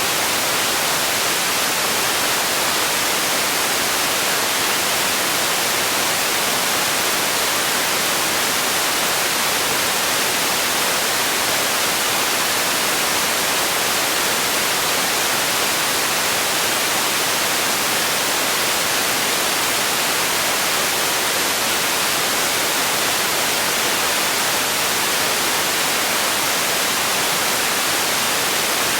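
Steady white noise: an even, bright hiss that never changes.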